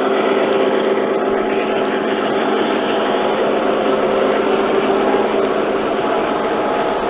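A 1:32-scale model train of four Southern Pacific diesel units running along the track, giving a steady engine-like hum with several held tones over a continuous rumble.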